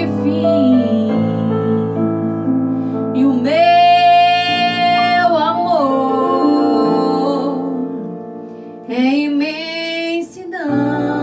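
A female voice singing long, held notes over piano accompaniment: one long note about a third of the way in and a shorter phrase near the end, with the piano sounding throughout.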